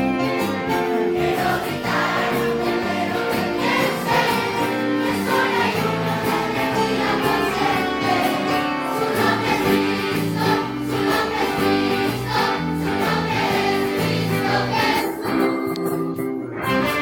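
Children's choir singing a hymn medley with instrumental accompaniment.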